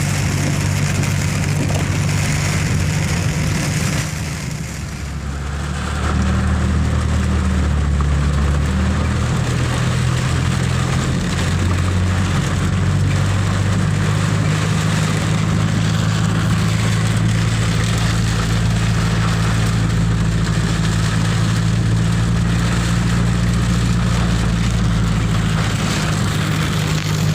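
Car engine running, its low hum stepping up and down in pitch several times, under a steady hiss of heavy storm rain.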